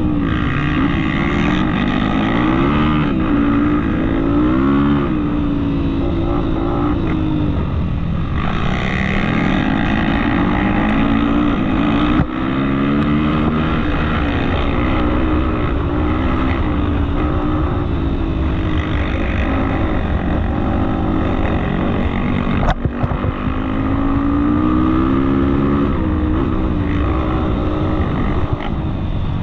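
Off-road motorcycle engine running under load, its pitch rising and falling again and again with the throttle. A sharp knock comes about twelve seconds in and another about twenty-three seconds in.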